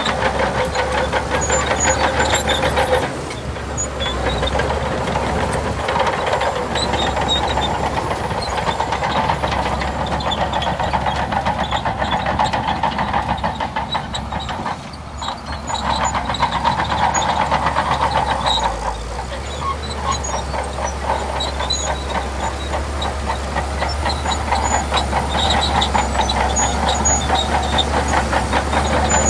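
Bulldozer's diesel engine working under load with a continuous mechanical clatter, the level dipping briefly a few seconds in and again about halfway through.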